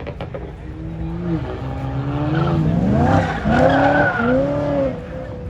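Car engine revving hard, its pitch rising and falling again and again, with tyres squealing as the car does donuts. It is loudest about three to four seconds in.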